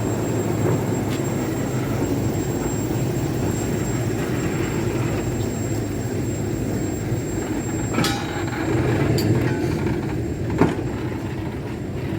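Small railway locomotive running steadily on the line, with a few sharp metallic knocks about eight and ten and a half seconds in.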